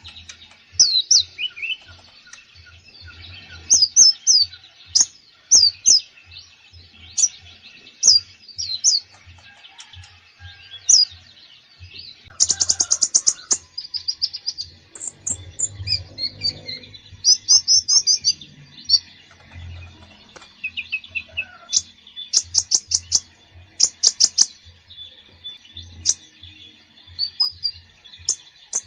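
A konin songbird singing actively in a varied song: quick sharp chirps and short falling whistles, broken by fast stuttering trills partway through and again later.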